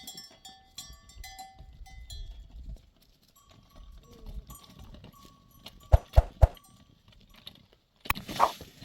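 Bells on grazing livestock clinking intermittently, with three sharp knocks about six seconds in and a brief rush of noise near the end.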